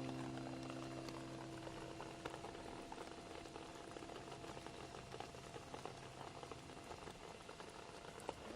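Rain falling, a steady fine patter with scattered louder drops. A held musical chord dies away over the first couple of seconds.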